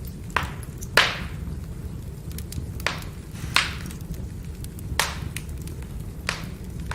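Burning firewood crackling: about six sharp pops at uneven intervals over a steady low rush of the fire, the loudest about a second in.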